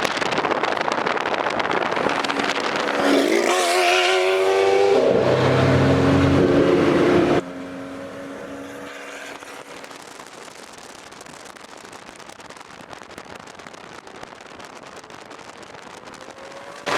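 Straight-piped, catless Lamborghini Aventador SV V12 engine accelerating hard, its pitch rising and then holding. About seven seconds in it cuts off suddenly, leaving a much quieter steady background noise.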